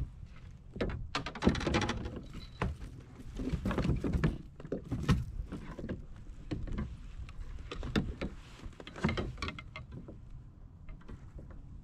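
Kayak under way: irregular splashes and knocks of paddling and gear against the hull, over a steady low rumble.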